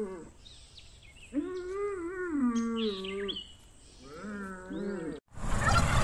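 Young cattle mooing: two long, wavering, fairly high-pitched calls, the first about a second and a half in, with small birds chirping faintly between them. Near the end the sound cuts off abruptly to a louder, noisy farmyard background.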